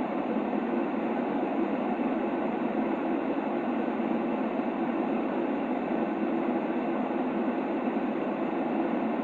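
White noise for a baby's sleep: a steady, unchanging rushing hiss, muffled, with little treble and little deep bass.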